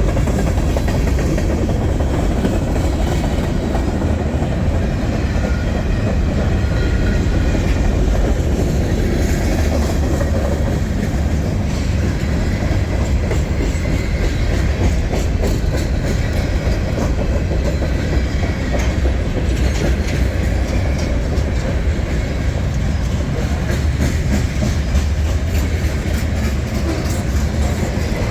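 Freight train rolling past: a steady, loud rumble of cars with wheels clacking over the rail joints.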